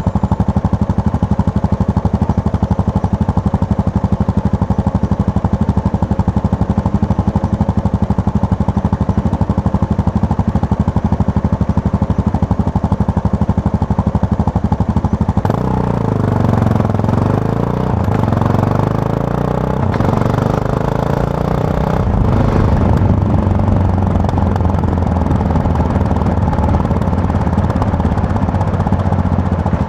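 Yamaha MT-03 motorcycle engine heard from the rider's seat, running steadily at a constant pace. About halfway through the engine note changes: its pitch falls and climbs again for several seconds, then settles into a steady run.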